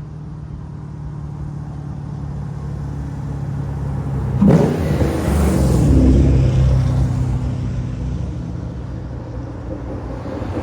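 A car engine rumbling as it drives past. It grows louder to a peak about four and a half to six seconds in, its pitch dropping as it passes, then fades.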